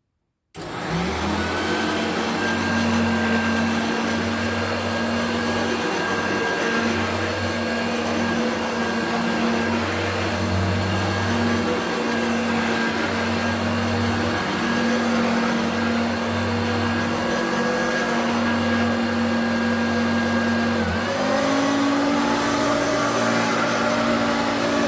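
Hoover Turbopower U2332 upright vacuum cleaner switched on about half a second in and running with a steady motor whine and a low pulsing hum. Near the end its pitch dips briefly and then settles higher. The owner thinks its motor needs work.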